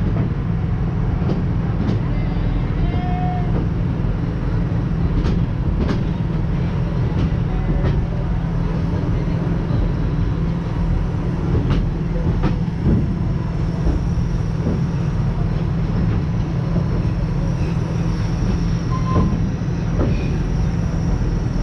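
Steady low rumble of a passenger train rolling along its track, with a few sharp clicks scattered through it.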